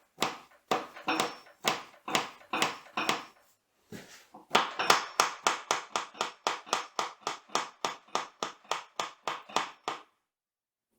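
Repeated hammer blows on metal, driving the speed-change shaft out of a milling machine's gearbox. The blows come about two a second, pause briefly about four seconds in, then pick up to about four a second before stopping near the end.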